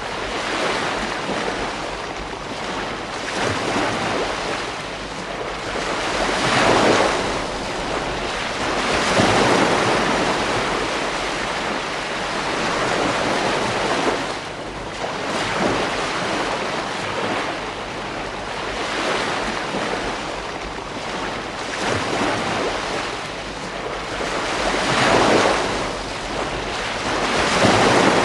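Ocean waves breaking on a beach, a steady wash of surf that swells every few seconds as each wave comes in, with some wind on the microphone.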